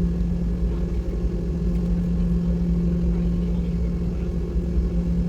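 Airliner cabin noise before takeoff: a steady low rumble with an even, unchanging hum from the engines.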